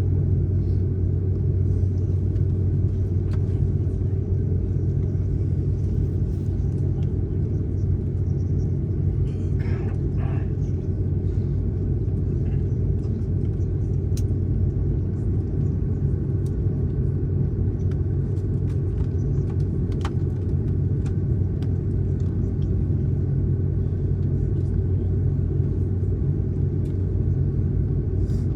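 Steady low rumble of an airliner's engines and airflow heard from inside the passenger cabin, holding an even level, with a few faint clicks.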